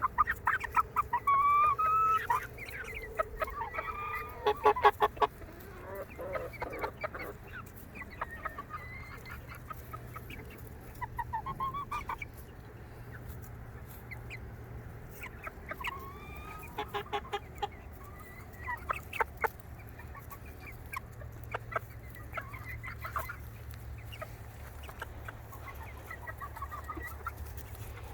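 A flock of chickens clucking, with many short calls that rise and fall in pitch and some quick runs of clucks. The calls are busiest in the first five seconds and again past the middle, over a steady low hum.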